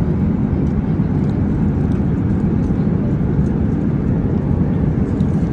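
Steady low rumble of airliner cabin noise in flight, with no breaks or changes.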